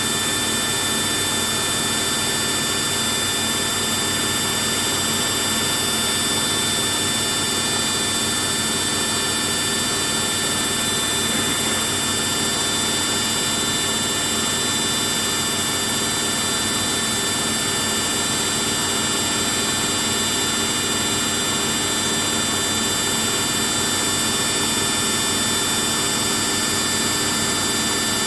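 Samsung front-load washing machine spinning its drum at high speed in the spin stage of a rinse-and-spin cycle: a steady motor whine with several fixed high tones over a rushing hum, unchanging in level.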